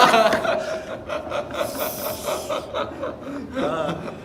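Young men laughing: a loud burst at the start, then a run of quick, even-pitched chuckles, with a hissing breath about two seconds in.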